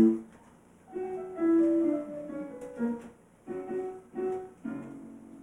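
Piano accompaniment for a children's song, playing a short melodic passage of held notes with no singing.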